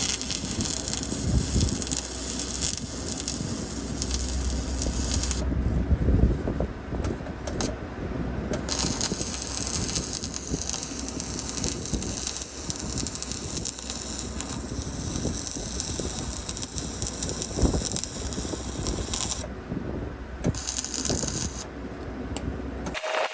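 Arc welding on a heavy-equipment steel frame: an irregular crackle and spatter of clicks, with a high hiss that starts and stops in long runs.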